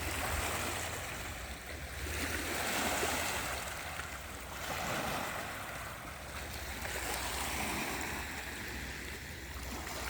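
Surf washing onto the beach: a hiss of breaking waves that swells and fades every two to three seconds, over a steady low rumble.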